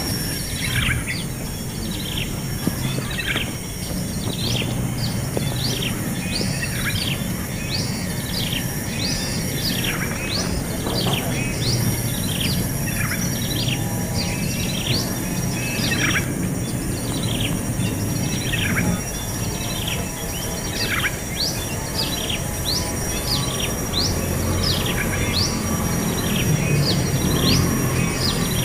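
Baby birds chirping for food: short notes falling steeply in pitch, about one or two a second. A steady high whine and a low rumble run under them.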